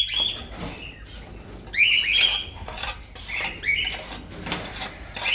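Parrots giving short, shrill squawking calls in a few quick clusters, each call rising sharply and then holding, with a few light clicks between them.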